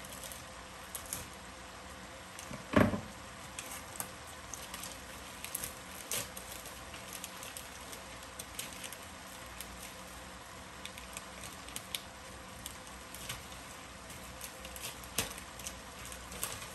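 Pork and napa cabbage filling sizzling in a frying pan with irregular small pops and crackles as the cabbage cooks down. One louder dull knock about three seconds in.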